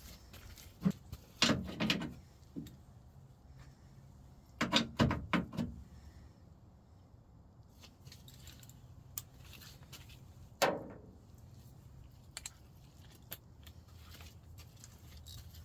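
Scattered metallic clicks and clinks of tools and door latch parts being handled inside a truck door. They come in short clusters about a second and a half in, around five seconds, and once more near ten and a half seconds.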